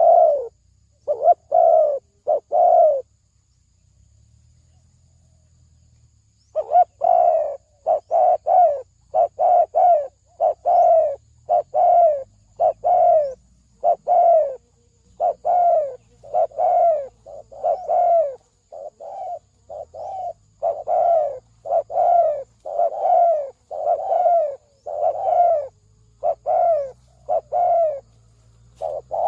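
Spotted dove cooing, a long series of short coos about two a second, pausing for a few seconds near the start and then resuming; the call is used as a lure to draw in wild doves.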